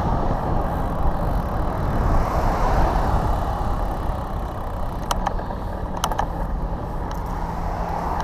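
Wind rushing over the microphone mixed with road traffic noise. A few sharp clicks come about five to six seconds in, and a low steady hum runs through the second half.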